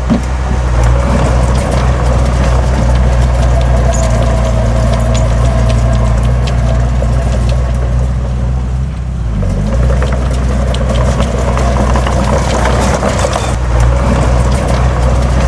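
Heavy earthmoving machine's diesel engine running steadily under work, with scattered clicks and rattles. About nine seconds in, the engine note drops briefly, then comes back up.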